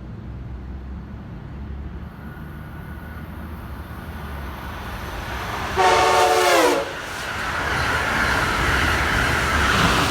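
A train approaching on the line sounds one short horn blast about six seconds in, a chord of several tones whose pitch drops as it ends. After the blast, the noise of the oncoming train builds and is loudest near the end.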